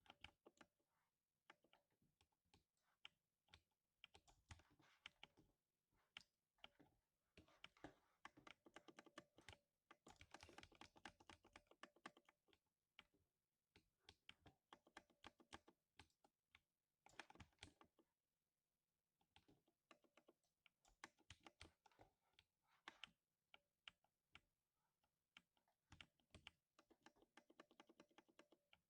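Quiet typing on a 60% mechanical keyboard with lubed linear silver switches: runs of rapid keystrokes broken by short pauses.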